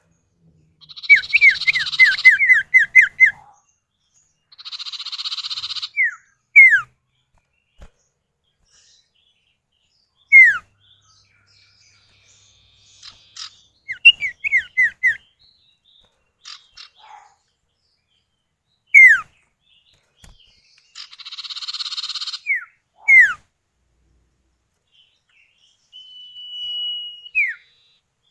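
Common iora (sirtu/cipow) calls, male and female answering each other. Rasping, buzzy phrases alternate with sharp downslurred whistles, some in quick runs of about four a second, and near the end comes one long level whistle that drops at its close.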